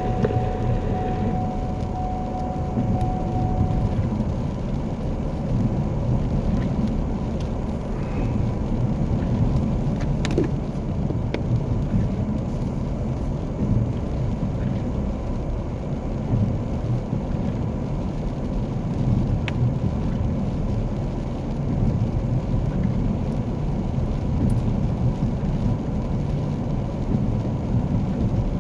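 Car interior road and engine noise while driving: a steady low rumble, with a faint steady tone over the first few seconds and a few light clicks.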